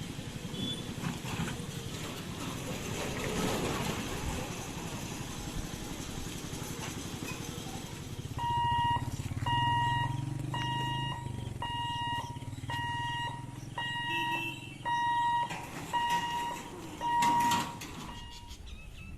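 Vehicle engines running at a level crossing. From about halfway in, an electronic beeper sounds about once a second, each beep about half a second long, ten times.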